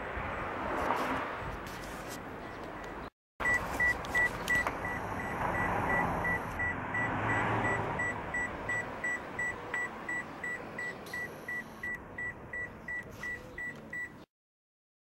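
Electronic beeper sounding a steady high beep, about two beeps a second, over background noise. It stops abruptly near the end.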